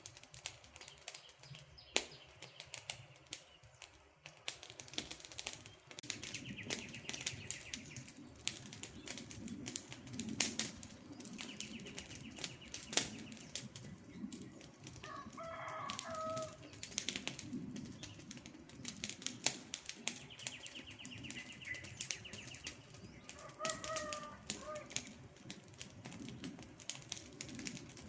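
Campfire crackling, with frequent sharp pops and snaps over a low rushing of the flames. A bird calls three times over the fire: at the start, about halfway through, and near the end.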